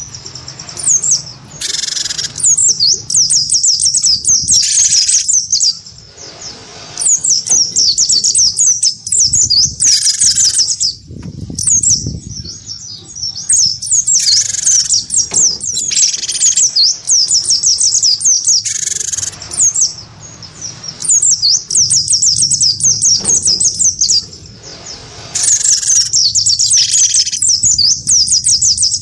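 Cinereous tit (gelatik batu) and a white-eye (pleci) singing against each other in a song duel: long runs of rapid, high twittering with short breaks between them.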